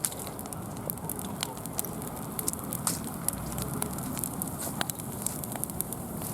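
Wood bonfire crackling: frequent sharp pops and snaps at irregular moments over a steady low hiss of burning.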